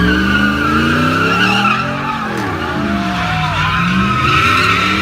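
A car engine revving hard, its pitch climbing, dropping and climbing again, while spinning tyres squeal without a break.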